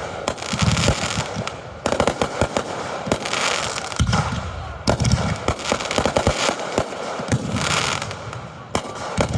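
Fireworks display heard from close to the launch area: many sharp bangs of aerial shells going off in quick succession.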